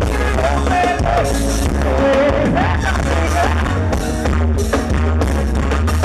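Band music with a heavy bass and a steady, driving drum beat, with a wavering melody line over it.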